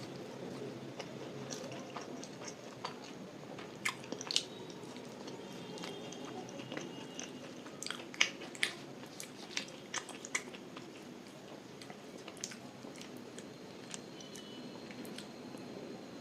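Close-miked chewing of luchi with cabbage curry, with sharp mouth clicks and smacks bunched about four seconds in and again from about eight to ten seconds in.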